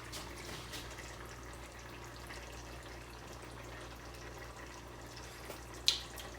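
Quiet steady low hum with faint background hiss, and a single short click about six seconds in.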